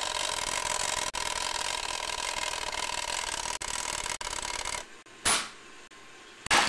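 Toy rocket launch accessory on an O-gauge train layout counting down with a steady rasping mechanical whir that stops about five seconds in. Two short, sharp whooshes follow as the rocket launches.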